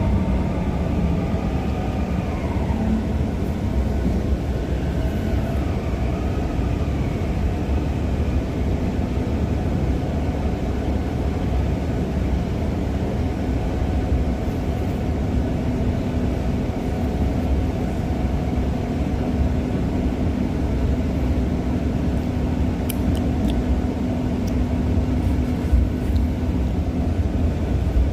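Shenzhen Metro Line 20 train running, heard from inside the car: a steady rumble of wheels on track with the hum of its traction motors. The motor tones shift in pitch over the first several seconds, then hold steady.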